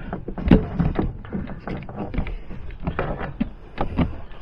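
Irregular knocks and clatter, a few every second.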